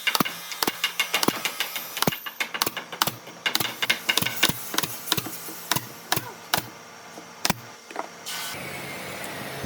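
Woodworking at the bench: an irregular run of sharp knocks and taps, several a second, on wood. A steady hiss comes in near the end.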